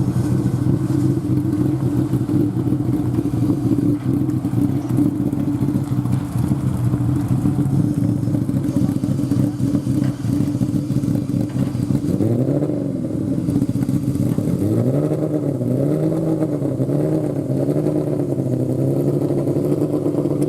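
A vehicle engine running loudly and steadily, then revved several times from about twelve seconds in, its pitch rising and falling with each blip.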